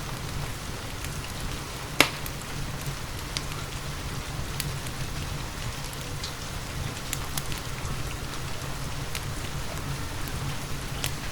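Steady rain mixed with a crackling wood fire in a fireplace, with sharp pops scattered through; the loudest pop comes about two seconds in.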